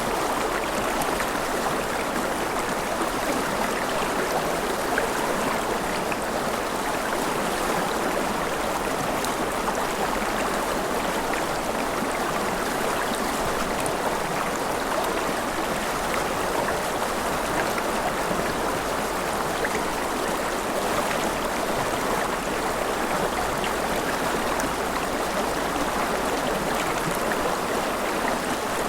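River water flowing over rocks: a steady, even rush with small splashes and gurgles.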